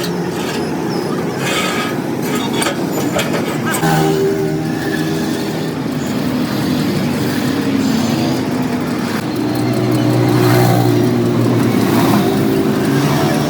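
Road traffic: vehicle engines running and passing, with a louder, low engine about ten seconds in and a few sharp knocks near the start.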